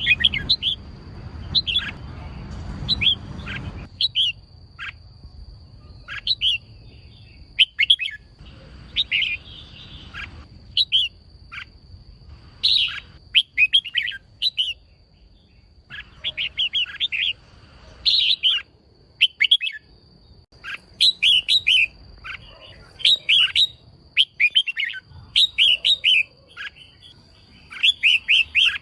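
Female red-whiskered bulbul calling in quick bursts of short, high chirps, repeated every second or two, over a faint steady high tone. A low rumble sits under the first few seconds.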